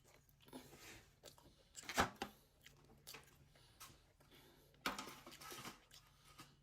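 A person biting into a flaky fruit-filled pastry and chewing it, in soft clicks and mouth sounds. There is one sharp, louder sound about two seconds in and a noisier burst near five seconds.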